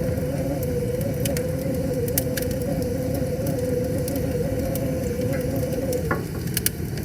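Wood fire crackling, with scattered sharp pops over a steady rushing bed of river water. A steady humming tone runs underneath and breaks off briefly about six seconds in.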